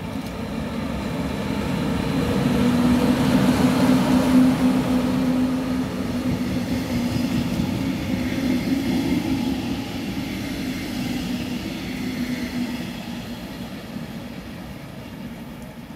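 Electric locomotive hauling double-deck regional coaches passing close by: a steady hum with wheel-on-rail noise that grows louder to a peak about four seconds in, then slowly fades as the train moves away.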